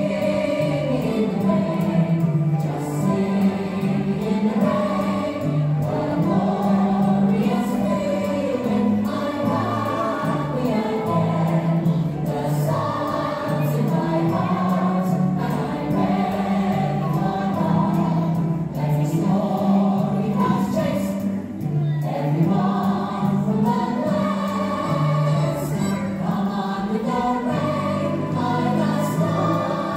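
Music: a group of voices singing together over instrumental accompaniment with a steady bass line.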